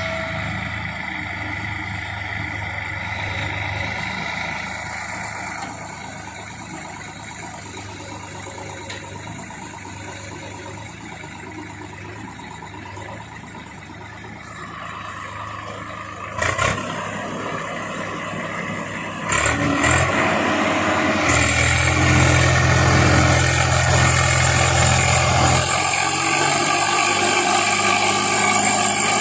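Heavy diesel machinery engine running steadily, then revving harder about two-thirds of the way in with a deep, louder drone, as in a tractor being pulled out of mud. There are a couple of sharp knocks just before it revs up.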